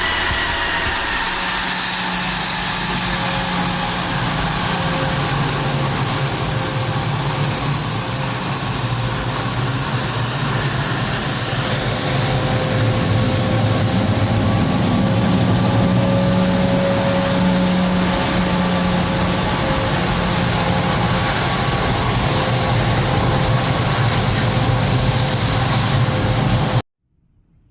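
Airplane engines running loud and steady: a dense roar with high whining tones over a low hum, cutting off suddenly near the end.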